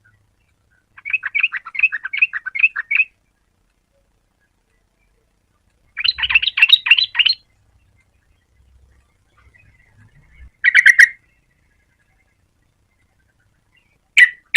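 Yellow-vented bulbul singing in four short phrases of quick repeated chattering notes, separated by gaps of silence. The loudest phrase comes about six seconds in, and a brief one comes near the end.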